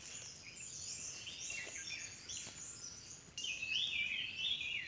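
Several small birds chirping and calling at once, a busy run of short high notes that overlap and grows louder about three and a half seconds in.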